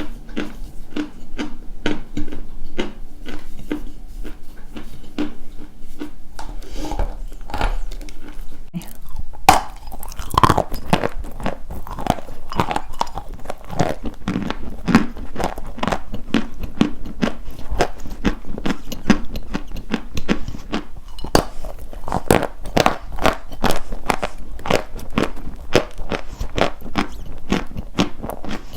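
Dry white chalk crunching in a quick, dense run of dry crackles, with one sharp crack about ten seconds in, after which the crunching gets louder.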